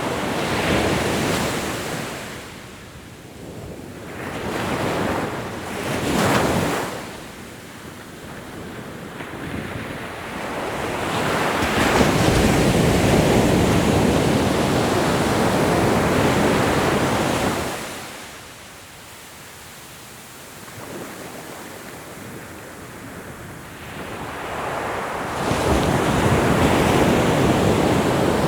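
Ocean waves breaking and washing up the shore in slow surges: a few short swells early, a long loud wash through the middle, and another building near the end, with wind in between.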